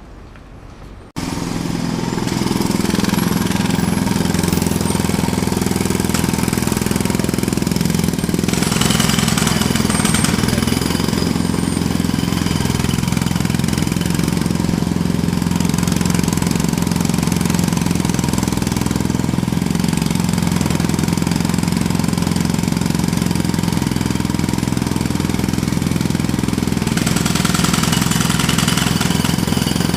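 Jackhammer breaking, starting abruptly about a second in and then running loud and steady without a break.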